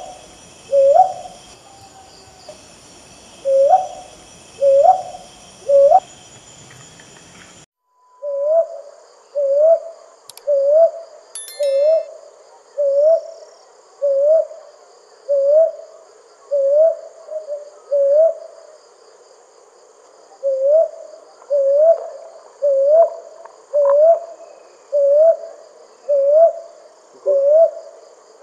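Brown hawk owl calling: a long series of short, rising hooted notes, about one a second. Steady insect stridulation runs high in the background, and the background changes abruptly about eight seconds in.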